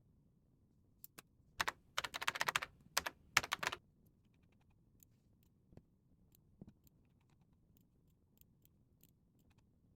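Typing on a computer keyboard: a quick run of keystrokes between about one and four seconds in, then only a few scattered faint taps.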